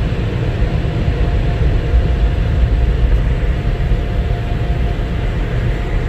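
Touchless car wash air dryer blowing steadily over the car, heard from inside the cabin: a constant loud rush with a faint steady hum.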